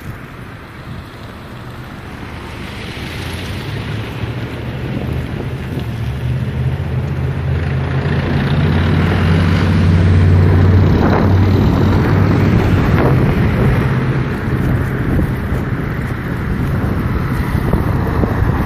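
A low engine hum mixed with wind rushing over the microphone, growing louder over the first half and staying loud.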